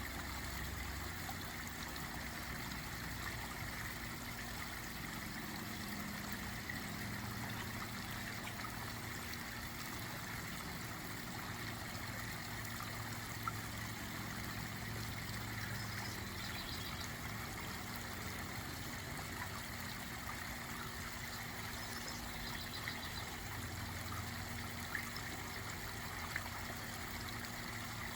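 Backyard water-garden waterfall trickling and splashing steadily into the pond.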